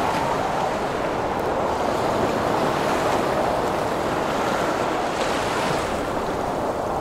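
Heavy ocean waves and storm wind, a dense steady rush of surf with wind blowing through it. A brighter hiss of breaking water swells about five seconds in.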